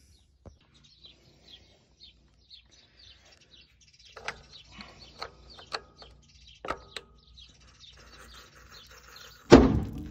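Faint birds chirping, with scattered clicks and knocks and one loud thump about nine and a half seconds in.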